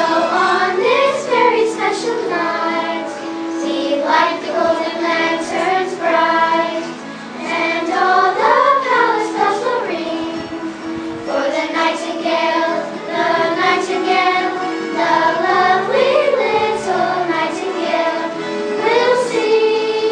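Children singing with backing music.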